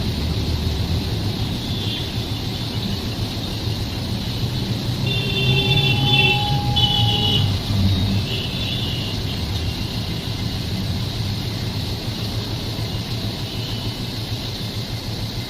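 Train running with a steady low rumble, with brief high-pitched squeals between about five and nine seconds in.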